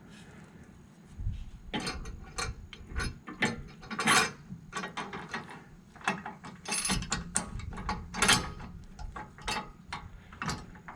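Hand ratchet wrench clicking in quick, irregular strokes as bolts are worked on a truck's steering box brace; it begins about two seconds in.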